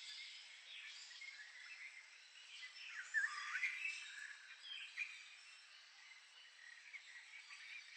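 Birds chirping over a steady outdoor hiss, with a burst of louder chirps about three to four seconds in.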